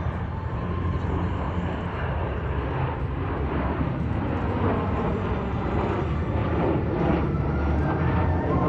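Formation of BAE Hawk jet trainers flying past, their Adour turbofans producing a steady jet roar with a deep rumble that grows slightly louder near the end.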